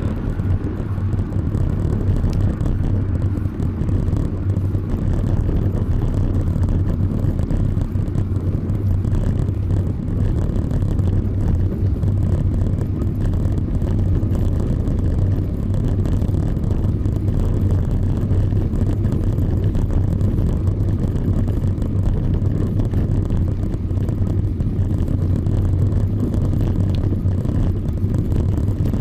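Steady low rumble of wind buffeting the microphone of a camera riding on a moving bicycle.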